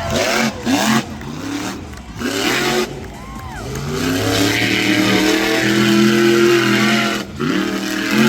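Monster truck engine revving hard: short throttle blips with abrupt cut-offs, then a long sustained high-rev run that cuts off sharply near the end.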